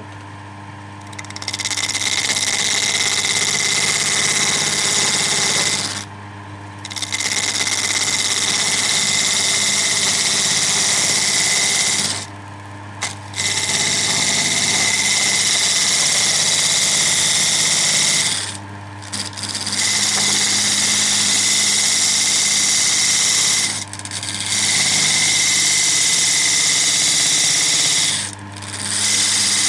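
Wood lathe running with a steady hum while a thin parting tool cuts into a spinning segmented wooden blank, giving a loud hissing cut. The cut stops briefly five times as the tool is eased off and comes back in.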